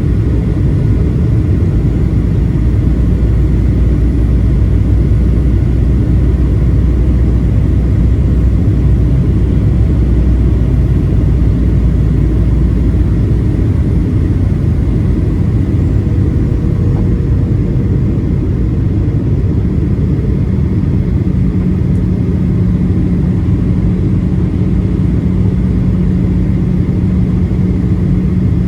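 Boeing 737-800 passenger cabin noise: a loud, steady rumble of engines and air. A low hum underneath fades out about halfway through, and a higher, steady drone comes in near the end.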